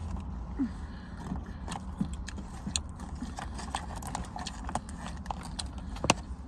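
Close-miked eating sounds: irregular wet clicks and smacks of chewing and lip noises, over a steady low hum.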